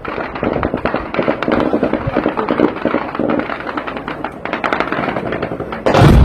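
Rapid anti-aircraft gunfire crackling in quick irregular bursts, then a large explosion breaks out about six seconds in, the loudest sound, with a low rumble rolling on after it.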